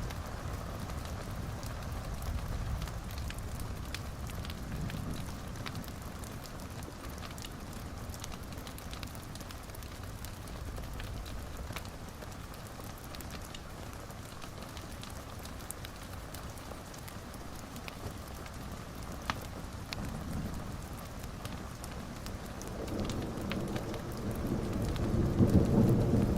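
Steady rain with scattered small crackles, and a low rumble of thunder building over the last few seconds.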